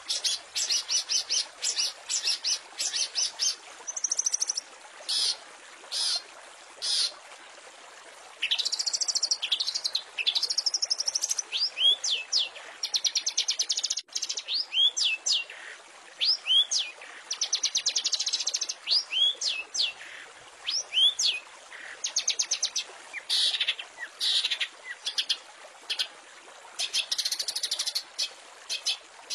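Long-tailed shrike (cendet) singing a rapid, varied song: rattling chattering trills alternating with sharp, sweeping whistled notes, over a steady hiss.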